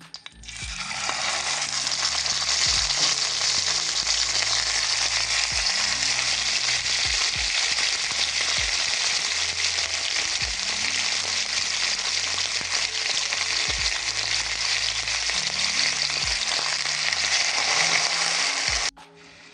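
Food sizzling steadily in a hot frying pan. It builds over the first couple of seconds and cuts off abruptly shortly before the end.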